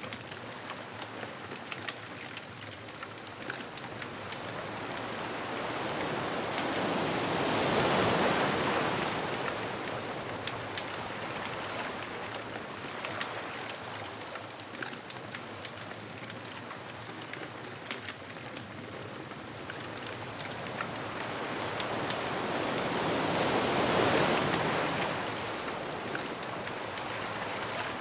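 Ocean surf washing on a beach, swelling twice to a peak, about a quarter of the way in and again near the end, then ebbing, over a constant hiss. Small sharp pops and crackles from a bonfire are scattered throughout.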